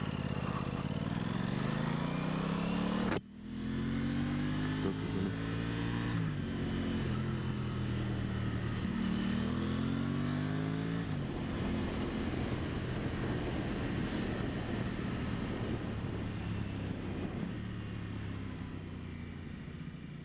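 Aprilia Tuono 660's parallel-twin engine pulling under acceleration, its revs climbing and then dropping at gear changes three times, then holding steady, with wind rush over the rider.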